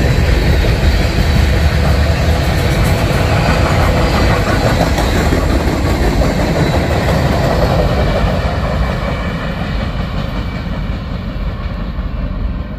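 Freight cars rolling past on the rails, a steady rumble and rattle of wheels on track. It fades gradually over the last few seconds as the end of the train moves away.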